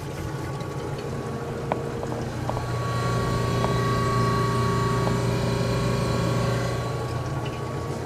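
Compressor of an antique General Electric CJ-1-C16 refrigerator running with a steady hum under heavy load, a little louder in the middle, with a few faint ticks.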